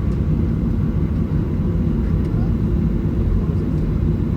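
Steady low rumble of cabin noise inside a Boeing 737-900ER on the ground.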